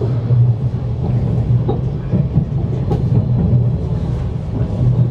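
CRH1A electric multiple-unit train running on the rails: a steady low rumble with scattered short clicks.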